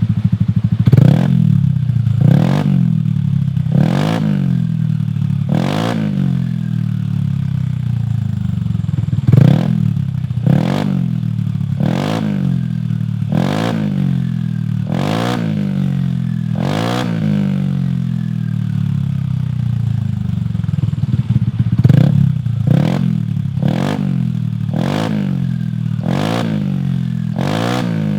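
Yamaha NMAX 155 scooter's single-cylinder four-stroke engine through a Shijiro Racing MT GP aftermarket exhaust, being blipped repeatedly from idle: a quick rev about every second and a half, each dropping straight back down to the idle.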